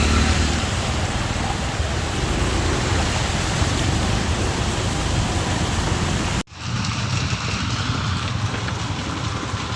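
Heavy rain falling, a dense steady hiss. About six and a half seconds in it cuts off abruptly and a different steady noise with a low rumble takes over.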